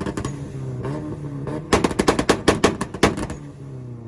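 A Nissan on its two-step launch-control rev limiter, the exhaust firing rapid bangs and pops like gunfire in two volleys, a short one at the start and a longer one from about two seconds in, with the engine running between them.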